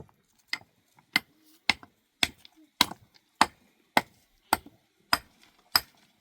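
Ten sharp, evenly paced blows, a little under two a second, like a tool striking wood or another hard material.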